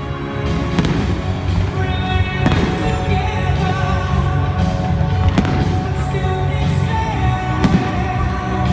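Fireworks going off, several separate bangs a couple of seconds apart, over loud music played through stadium speakers.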